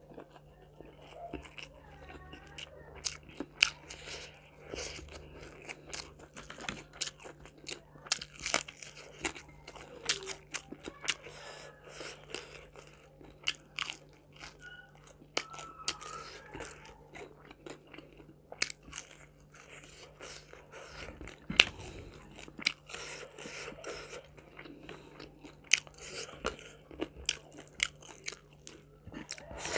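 Close-miked mouth sounds of someone eating food by hand: steady chewing with many sharp crunches and wet smacks, one crunch about two-thirds of the way through the loudest.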